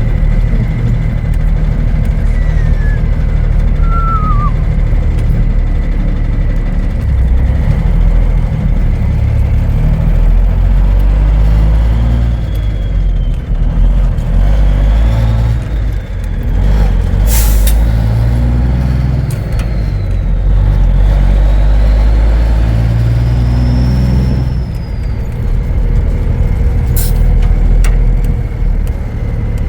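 Peterbilt 359's Cummins diesel running under way, its turbo whistle rising and falling several times as the throttle changes. Two brief hisses of air are heard, one a little past the middle and one near the end.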